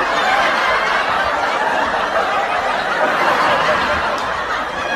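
Steady, continuous laughter as from many people, a dense mass of snickering and chuckling.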